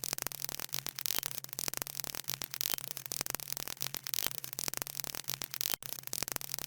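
Crackling static noise, dense irregular clicks with a steady low hum underneath.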